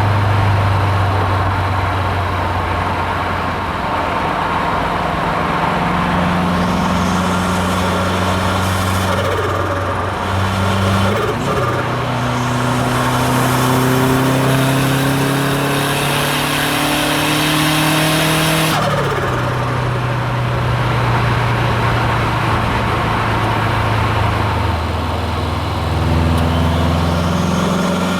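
Subaru WRX STI's hybrid-turbo flat-four engine on the move, cruising steadily, then pulling for several seconds with a slowly rising engine note and a building hiss. About two-thirds of the way through the hiss cuts off abruptly and the engine settles back to a steady, lower note.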